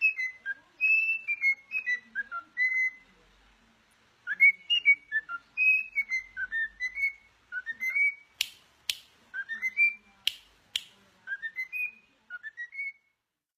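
A parrot whistling a string of short notes that slide up and down, in phrases, with a pause about three seconds in. A few sharp clicks come over the second half.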